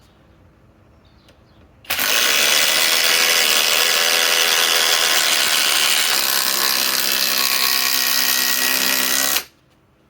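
Cordless impact drivers, a SKIL PWRCore 20 and a DeWalt DCF845, hammering as they drive long ledger lock structural screws. They start about two seconds in, run loud and steady, change in tone around six seconds in, and cut off suddenly near the end.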